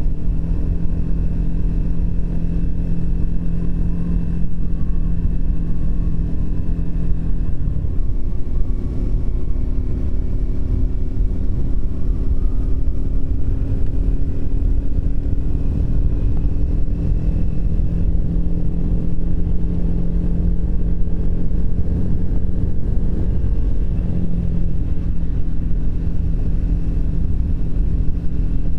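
Triumph Speed 400's single-cylinder engine running under way. About eight seconds in the pitch changes as it shifts gear, then it climbs slowly as the bike gains speed, with another change about 24 seconds in.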